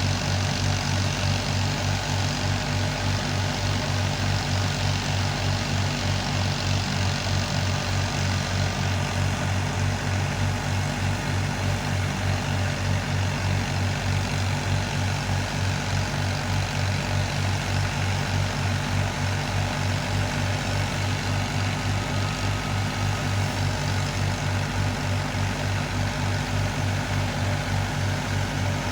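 Fiat 480 tractor's three-cylinder diesel engine running steadily under load, with an even low pulsing beat, driving a wheat thresher whose mechanical hum mixes in.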